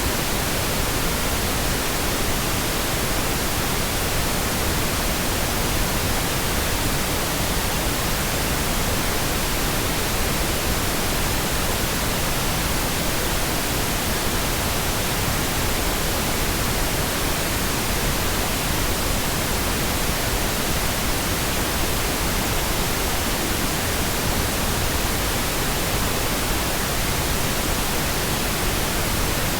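Steady, uninterrupted synthetic pink noise: an even hiss spread across the whole range, unchanging in level.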